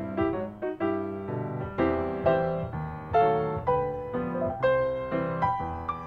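Gentle background piano music: single notes and chords struck one after another, each ringing out and fading.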